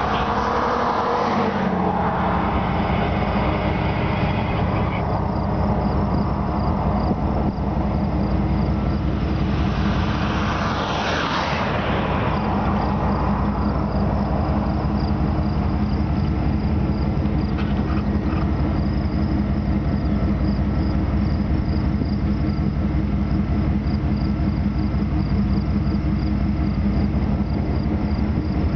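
A vehicle passes on the road about eleven seconds in, over a steady low engine hum. Insects chirp in a fast, even pulse.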